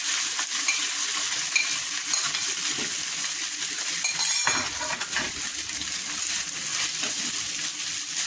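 Shredded boiled chicken sizzling in hot oil in a frying pan as it is scraped in from a plate and then stirred with a wooden spatula, with a sharp clink about four seconds in.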